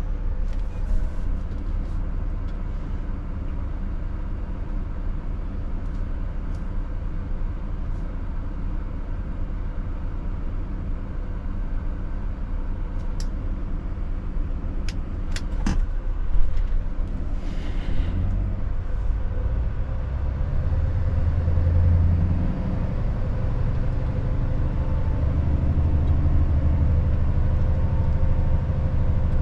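Scania S580 truck's V8 diesel engine running steadily under way, with a few sharp clicks a little before the middle. About two thirds in, the engine's low drone grows deeper and louder.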